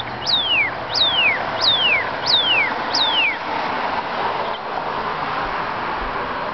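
Northern cardinal singing: five clear whistles, each sliding steeply down in pitch, evenly spaced over the first three seconds, over a steady background hiss.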